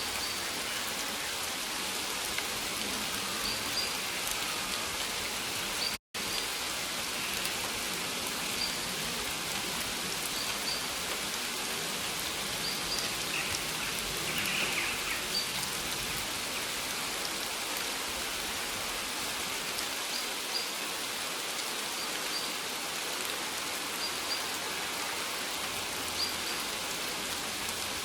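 Steady rain falling on a forest, with faint short high chirps at intervals. The sound cuts out completely for an instant about six seconds in.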